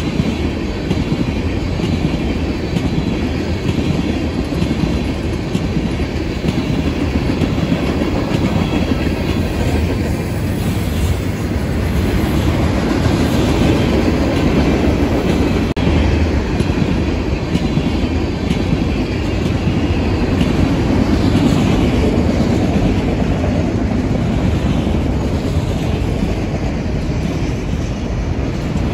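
Freight train cars rolling past, tank cars and then autorack cars: steel wheels on the rails making a steady rumble.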